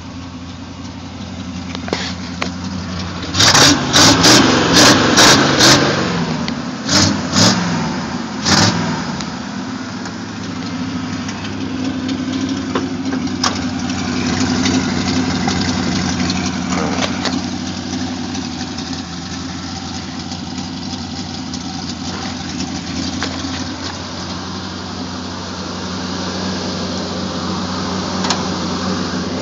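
1977 Ford F-350's rebuilt 351M V8 running through dual exhaust. About four seconds in it is revved in five quick blips, then three more over the next few seconds. After that it settles to a steady idle.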